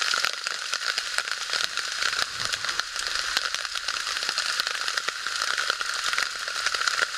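Rain pattering steadily on a tarp overhead: a dense, even hiss full of tiny ticks from the drops.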